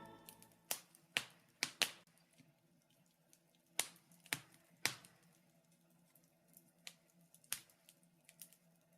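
Wood fire crackling in a fireplace: irregular sharp pops and snaps, several close together in the first two seconds and again around four to five seconds in, over a faint background.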